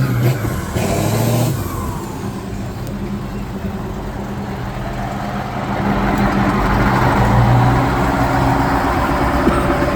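Heavy off-road truck engine working under load, easing off about two seconds in and building up again past the middle.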